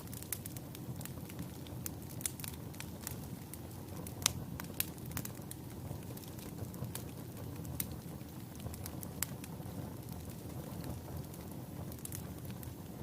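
Wood fire burning in a fireplace: a steady low rumble of flames with irregular sharp crackles and pops, the loudest pop about four seconds in.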